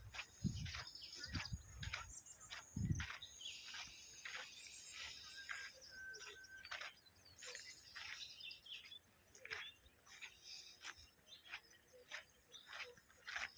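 Many small birds chirping and calling in quick, short notes, with a few low thumps in the first three seconds.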